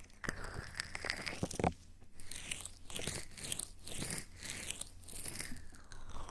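Close-miked ASMR trigger sounds: soft, irregular crunching and crackling swishes with small clicks, a few each second.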